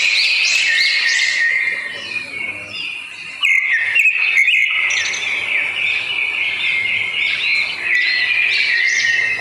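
Birds chirping: a dense run of quick, rising chirps, several a second, with a brief break a little past the middle.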